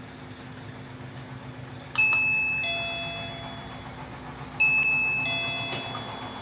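A wireless calling bell (doorbell) sounds its electronic two-note ding-dong chime twice, about two and a half seconds apart, each note ringing and fading away. A faint steady low hum runs underneath.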